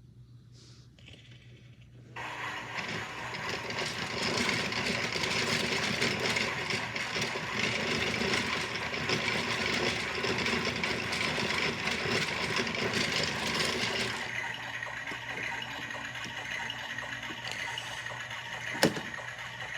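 Washmatic toy washing machine running with its lid up, its lid switch bypassed: a steady mechanical whirring and rattling that starts about two seconds in and drops to a quieter run about two-thirds of the way through, with one sharp click near the end.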